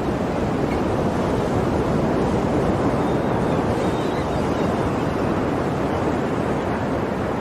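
Sea waves and surf washing steadily, a continuous rushing with no single crash standing out.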